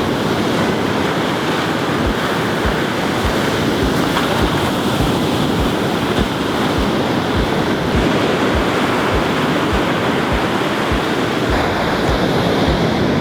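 Ocean surf washing onto the shore in a steady rush of noise, with wind blowing across the microphone.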